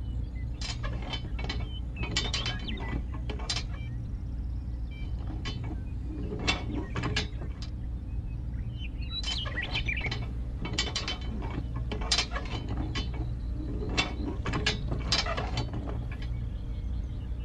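Irregular small clicks and taps of hands fitting a wooden model cultivator frame onto a toy tractor's spring-loaded hitch, in clusters with short pauses, over a steady low background hum.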